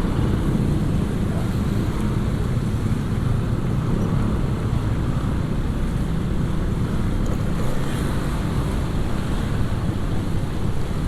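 Steady wind rushing over an action camera's microphone on a moving motorcycle, over a low rumble of the motorcycle's engine and tyres on the road.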